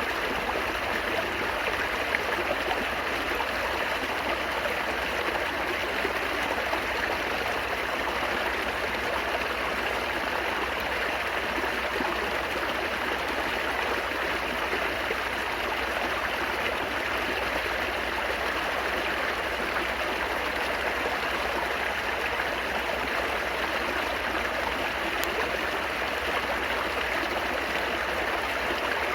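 Flowing water babbling steadily, an even rush with no pauses or changes.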